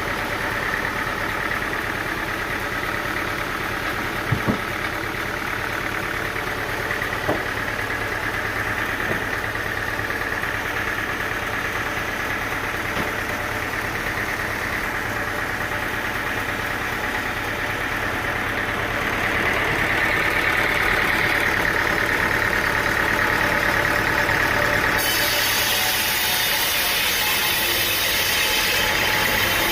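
An engine running steadily, as on engine-driven sawmill machinery, growing louder past the middle. There are a couple of sharp knocks a few seconds in, and the sound turns suddenly brighter and hissier near the end.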